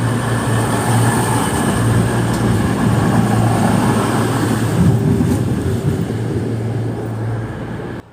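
Diesel train running close by, a steady low engine drone under loud rail and wheel noise. It eases a little near the end, then cuts off suddenly.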